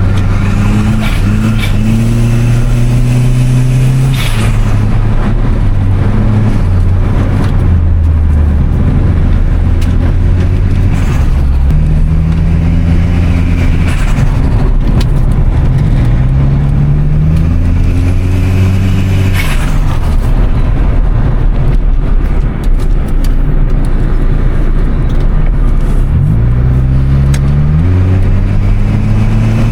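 1996 Toyota Starlet Glanza V's 1.3-litre turbocharged four-cylinder pulling up through the gears. Its pitch climbs, then falls back at each shift. Short bursts of turbo flutter come several times as the throttle closes.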